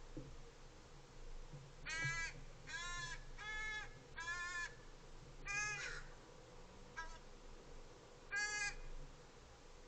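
American crow cawing: a series of about six short, harsh caws at uneven intervals.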